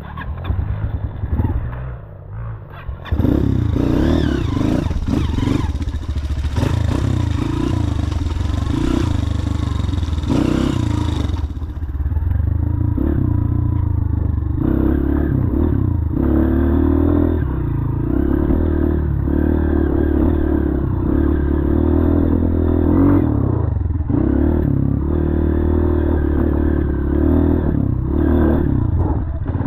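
Motorcycle engine running, with rattling and clatter over it. It is quieter for the first few seconds, then steady and loud.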